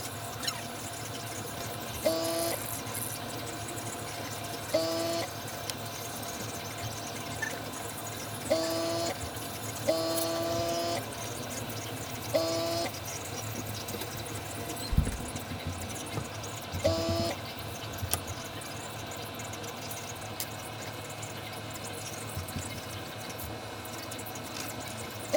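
Airbrush being cleaned of lacquer paint, fired in about six short blasts of air, each with a whistling two-note tone, over a steady low hum.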